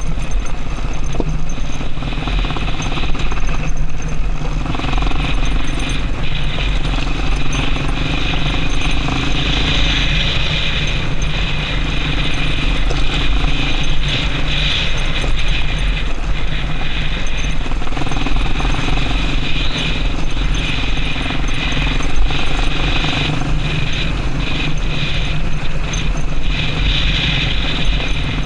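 Yamaha Serow XT225 motorcycle's single-cylinder four-stroke engine running while riding, its pitch stepping up and down every few seconds, over a steady rushing noise.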